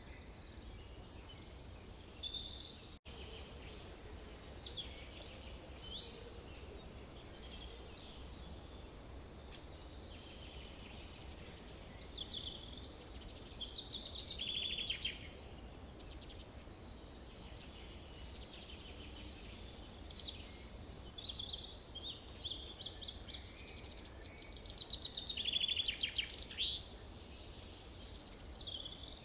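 Forest ambience of several birds singing and calling, with repeated rapid trills, the loudest near the end, over a steady low rumble. The sound cuts out for an instant about three seconds in.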